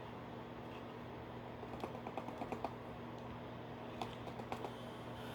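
A few light clicks and taps of hard plastic toy parts being handled, in two short runs, over a steady low hum.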